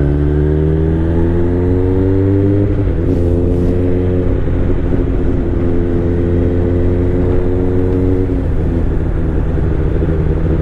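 Motorcycle engine under acceleration, its note rising, a gear change about three seconds in, then holding a steady note at speed before easing off after about eight seconds. Steady low wind rumble on the microphone underneath.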